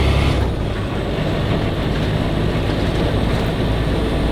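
Semi-truck cab interior while driving: a steady mix of engine drone and road noise. The deep engine drone drops off about half a second in and comes back near the end.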